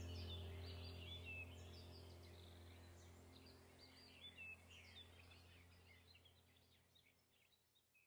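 Faint birdsong: many short, quick chirps repeating throughout, over a low steady hum that fades out.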